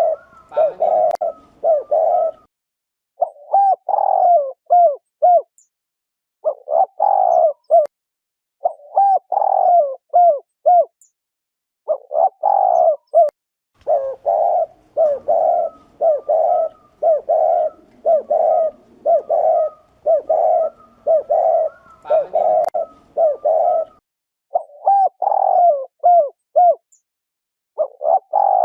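Spotted doves giving their 'gù' cooing calls: repeated phrases of a few low, pitched coos, each phrase lasting a second or two, with short pauses between them.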